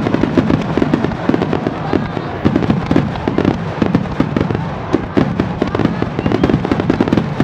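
Wide star mine fireworks barrage: shells bursting in rapid, overlapping succession, a continuous dense run of bangs with no pause between them.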